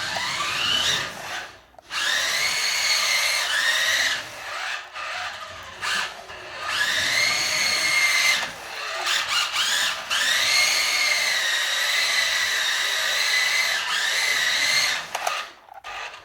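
Tyco Twin Turbo Porsche 962 RC car's twin 9.6-volt electric motors whining in a series of runs, the pitch rising as the car accelerates each time, with short breaks between bursts and one long steady run in the second half.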